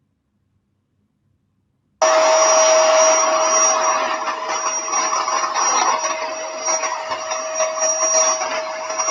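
Silence, then about two seconds in a loud, steady whirring noise with a constant whine cuts in abruptly, like a motor-driven household appliance running.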